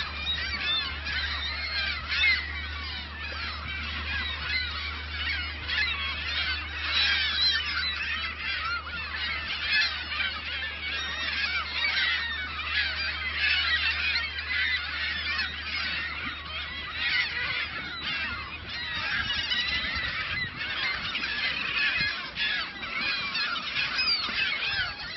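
A large flock of birds calling all at once: a dense, unbroken chatter of many overlapping calls.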